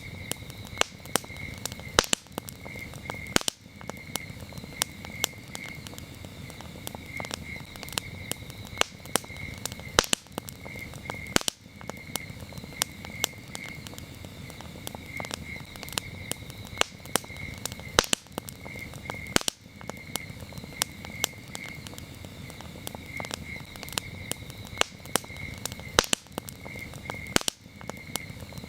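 Wood campfire crackling with frequent sharp pops over a low steady rush of burning, while crickets chirp in repeated short trains of a high pulsing tone.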